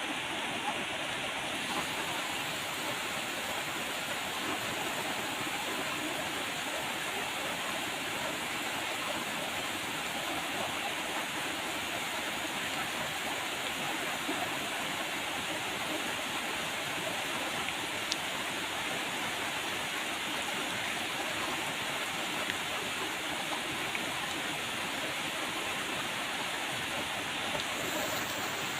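Steady rain falling, a continuous even hiss of water with no letup.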